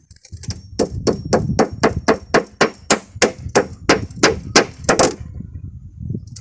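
Steel hammer driving nails, a steady run of metallic blows about three a second, stopping about five seconds in.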